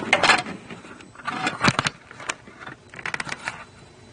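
Handling noise from a camera being moved and set down against parts: three short bursts of scraping and rustling with a few sharp knocks.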